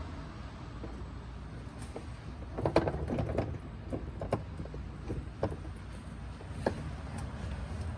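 Several sharp clicks and knocks, the loudest about three seconds in, over a low steady hum.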